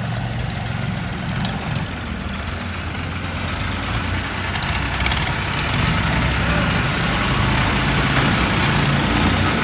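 Tractor diesel engine running at idle, a steady low note that grows a little louder in the second half.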